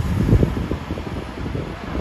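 Heavy truck's diesel engine rumbling low, with a stronger low surge about a third of a second in and wind buffeting the microphone.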